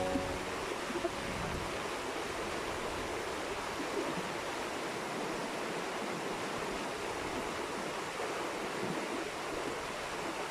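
River water flowing: a steady rush of running water.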